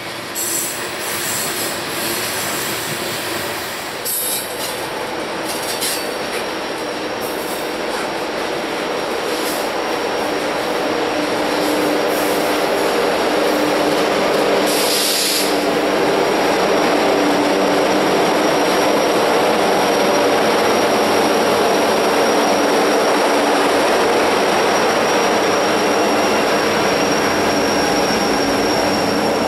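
BNSF coal train of loaded hopper cars rolling past on a curve, with wheels squealing and rail joints clacking. About halfway through, the diesel locomotives running as rear distributed power pass close by, and their steady engine drone makes the sound louder.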